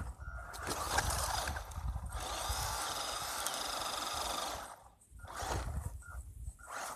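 Electric RC truck's motor and drivetrain whining in bursts of throttle, with one longer steady run of a couple of seconds in the middle.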